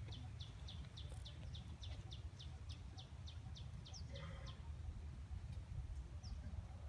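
A small bird calling a rapid run of short, high chirps, about three or four a second, that stops about four and a half seconds in, with a couple of single chirps near the end, over a steady low rumble.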